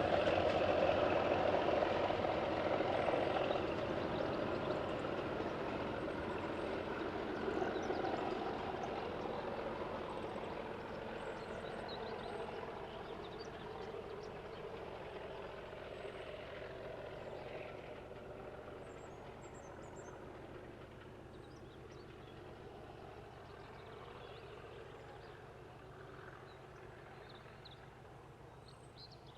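Diesel locomotive engine running, its rumble fading steadily over the whole stretch until it is faint.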